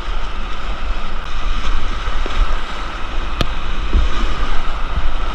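Whitewater rushing past a kayak, with wind buffeting the microphone as a low rumble. There is a single sharp click about three and a half seconds in.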